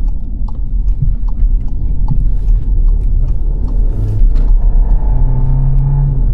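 Car driving on the road, with a steady low rumble of road and engine noise. A sharp, regular ticking, about two and a half ticks a second, runs through the first four seconds and then stops; after that a steadier hum comes in.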